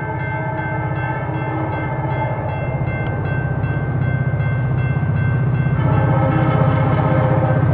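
EMD 645-powered diesel freight locomotives approaching under power, the engines' pulsing low rumble growing steadily louder. The air horn sounds for the first couple of seconds and again near the end.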